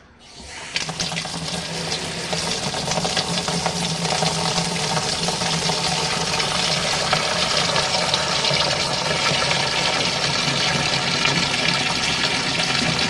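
Hot water running from the tap into the tub of a portable RV washing machine. It starts just after the beginning, builds over the first couple of seconds to a steady rush and holds there, with a low hum underneath.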